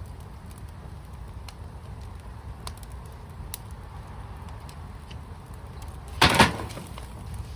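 Wood fire in a fire pit burning with a steady low rumble and scattered sharp crackles. About six seconds in, a loud cluster of pops lasts about half a second.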